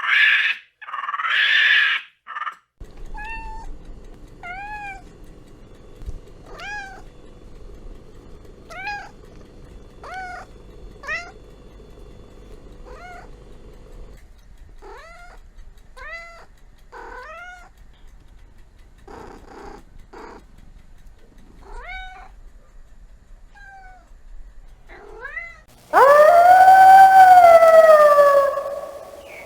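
A cat meowing over and over, short rising-and-falling meows about one a second, with a faint steady hum behind the first half. Two loud harsh cries come just before the meows, and near the end a long, loud howl sets in and falls in pitch.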